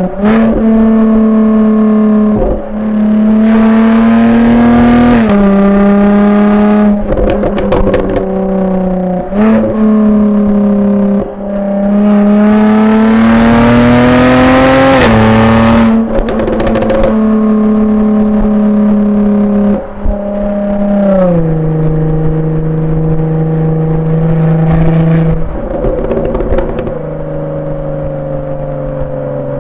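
Jaguar F-Type V6 S's supercharged 3.0-litre V6 on its factory exhaust in Dynamic mode, pulling hard and changing up through the gears, the pitch climbing then dropping at each shift. Between pulls it pops and crackles on the overrun.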